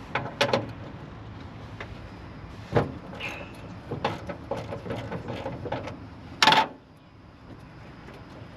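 Scattered knocks and clicks of things being handled, then one loud thump about six and a half seconds in, after which the steady background grows a little quieter.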